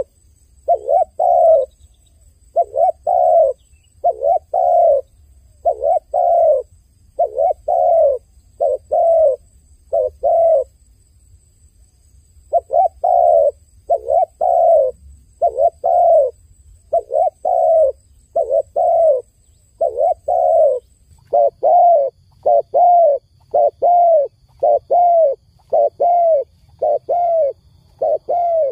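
Dove cooing: short, low coos repeated in quick groups of two or three, over and over, with a pause of about two seconds a little before the middle.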